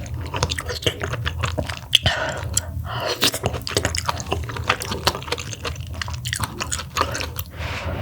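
Close-miked mouth sounds of a person chewing mussel meat, with frequent small wet smacks and clicks.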